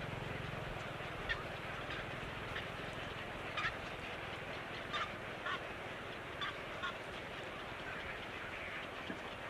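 Bird calls: short, sharp calls repeated at uneven intervals, about seven of them, over a steady background hiss.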